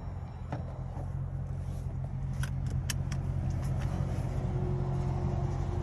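Straight-piped Dodge Durango exhaust droning steadily at a low pitch and growing gradually louder, with a few light clicks and rattles over it.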